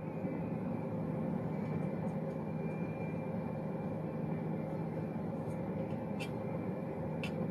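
Steady low background rumble with two short clicks near the end.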